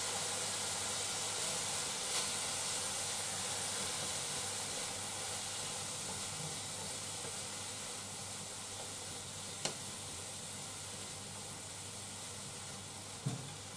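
Chicken and napa cabbage sizzling in a frying pan while being stirred, a steady hiss that slowly fades. A few light clacks sound over it, the loudest near the end.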